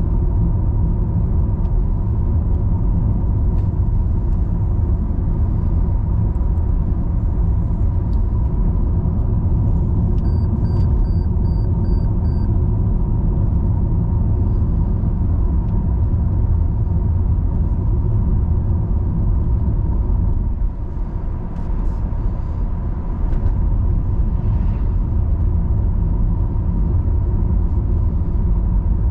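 Car driving on the road: a steady low rumble of engine and tyre noise. About ten seconds in there is a short run of five quick high beeps, and the rumble eases briefly about two-thirds of the way through.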